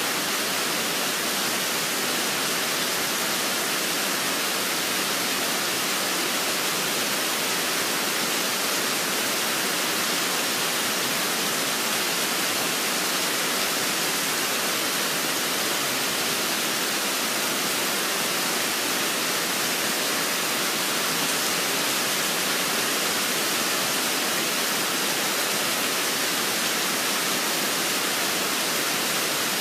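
Steady rain falling, a dense even hiss with no breaks or changes.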